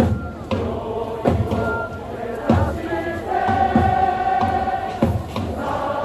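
Football supporters' chant: a large crowd singing together in unison over heavy drum beats, with a long held note in the middle.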